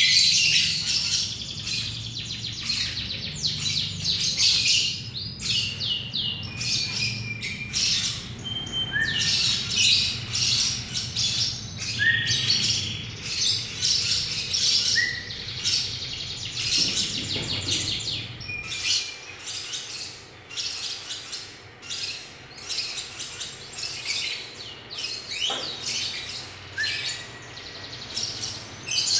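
Lovebird chirping continuously in rapid, shrill, high-pitched bursts. A low steady hum underneath stops about two-thirds of the way through.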